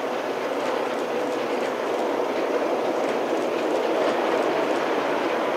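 Steam-hauled passenger train rolling across a steel girder bridge, its carriage wheels clicking over the rail joints. It grows louder in the first second, then runs steadily.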